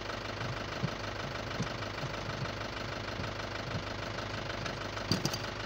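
Car engine idling steadily, with a few faint clicks near the end.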